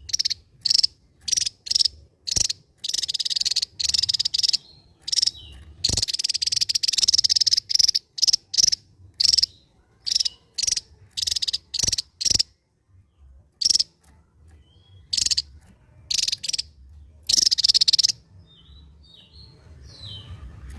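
Javan tesia singing: loud, harsh, buzzy drilling bursts, some short and some held for a second or more, repeated at uneven intervals. Softer, thin chirps come near the end.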